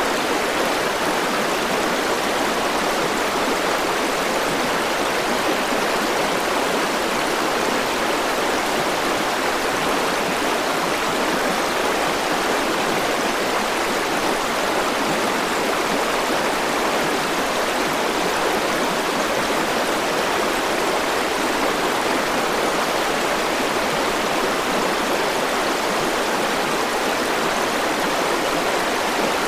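River water rushing and splashing over stones: a steady, even rush with no breaks.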